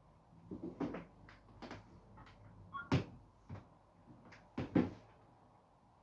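A string of household knocks and clatters, with two louder knocks about three and five seconds in and a brief squeak just before the first.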